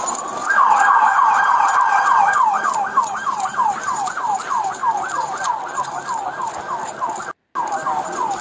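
Police car siren in yelp mode: a rapid falling sweep that repeats about five or six times a second. It starts about half a second in and cuts out completely for a moment near the end.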